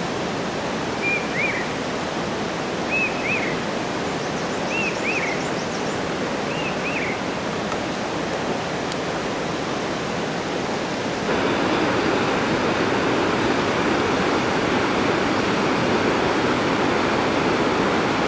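Steady rush of flowing water, like a mountain stream, with four short high chirps spaced about two seconds apart in the first half. The rush turns louder about eleven seconds in.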